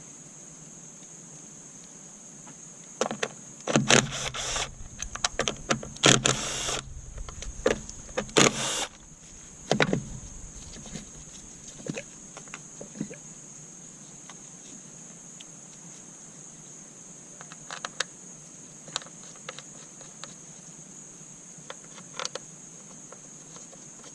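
Work on the coil packs of a Dodge 3.5L V6: a run of clicks, knocks and plastic clatter, with three short whirring bursts of a small power tool a few seconds in, then only a few scattered light clicks.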